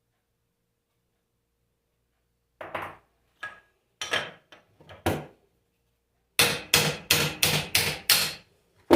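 Hammer blows on a Bosch alternator during its teardown for a bearing change: a few separate strikes, then a quick run of about seven blows at roughly four a second, and one more near the end.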